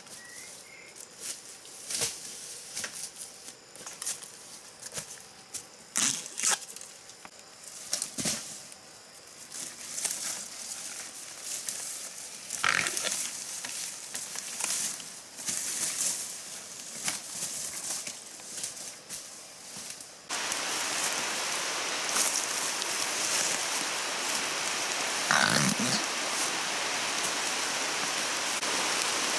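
Scattered snaps and rustles, then, about two-thirds through, a sudden switch to the steady hiss of heavy rain, with a short low grunt near the end.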